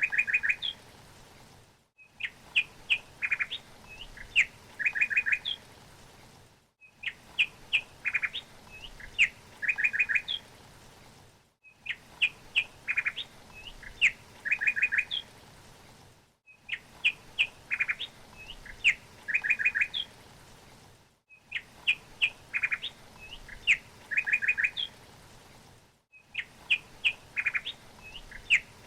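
Songbird singing a short phrase of sharp chirps and quick trills. The same phrase repeats about every five seconds, with a brief break of silence between repeats: a looped recording.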